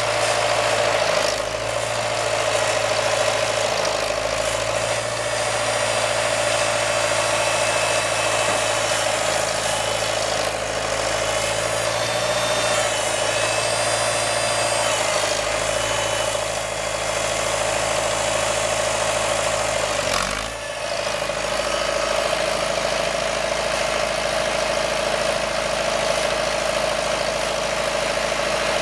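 International 340 utility tractor's engine running steadily at a constant speed, with a brief dip in level about twenty seconds in.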